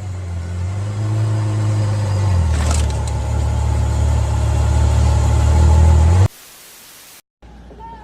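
Car engine running loud with a deep, steady rumble that drops a little lower about two and a half seconds in, then cuts off abruptly about six seconds in.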